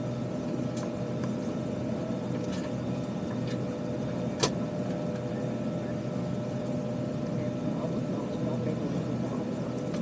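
Steady hum inside an Airbus A320 cabin waiting on the ground before takeoff, with scattered small clicks and one sharp click about four and a half seconds in.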